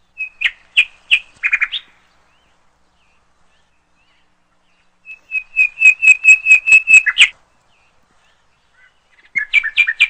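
A songbird singing loudly in three short phrases of rapid, evenly repeated high notes, the middle phrase the longest and ending in a quick flourish.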